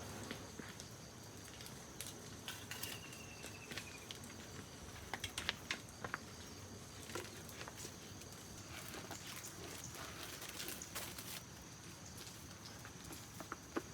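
Faint outdoor ambience: a steady high insect drone, with scattered light clicks and taps and a short faint falling whistle about three seconds in.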